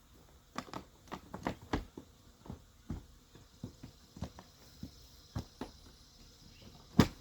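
A series of irregular sharp clicks and knocks, roughly two a second, with the loudest knock near the end. No engine is running.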